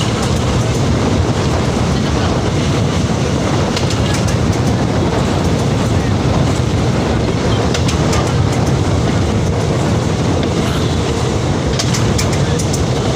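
Train running along the track: a steady, loud rumble, with a few clusters of sharp wheel-on-rail clicks.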